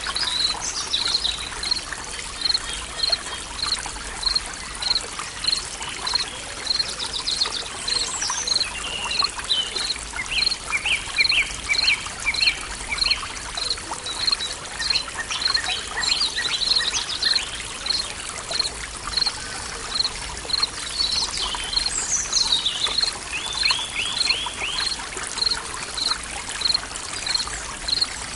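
Forest ambience: a trickling stream with birdsong over it. A short high chirp repeats about twice a second throughout, and other birds sing brief trills about ten seconds in and again near the end.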